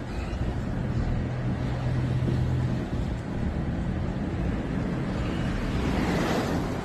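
Vehicle running with a steady low hum that stops about three seconds in, over a constant rushing noise that swells near the end.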